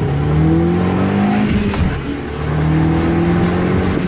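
Audi A3's 2.0-litre turbocharged four-cylinder engine accelerating hard under load, its pitch rising, dropping back at a gear change about two seconds in, then rising again in the next gear.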